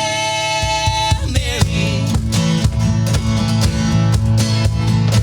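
Acoustic country song performance: a sung note held for about a second, then acoustic guitar strumming a steady rhythm on its own.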